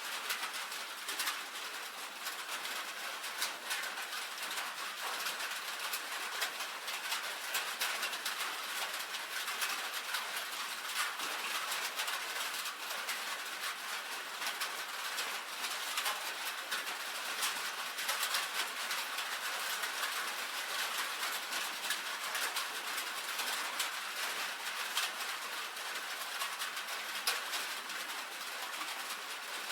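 Rain falling steadily on a tin roof: a dense, even patter of countless drops striking the metal, with no pauses.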